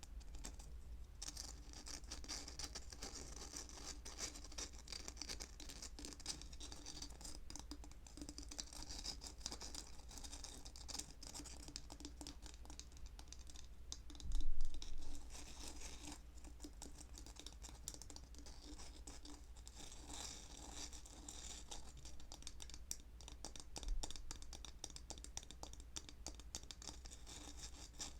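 Close-miked ASMR scratching and fine tapping on an object: a dense run of small crackly clicks, with a louder dull knock about halfway through and a lighter one near the end.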